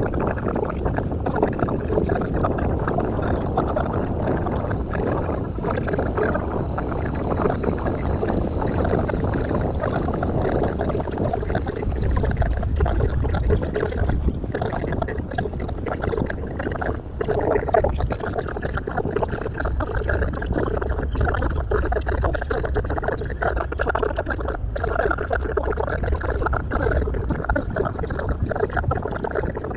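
Deck noise from a harbour cruise boat under way, with wind, water and engine blended into one steady rush. It plays at ten times normal speed, which makes it a dense, rapidly flickering wash.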